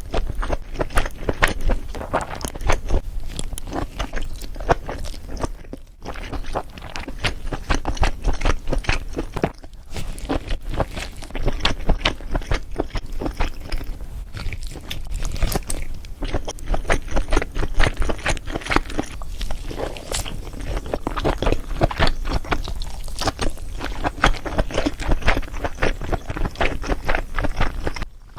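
Close-miked mukbang eating of a garlic butter seafood boil: irregular wet chewing, crunching and scraping of shells.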